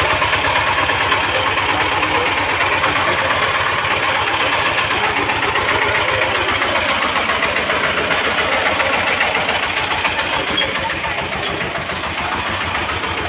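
An engine running steadily at a constant speed, with a fast, even knocking pulse.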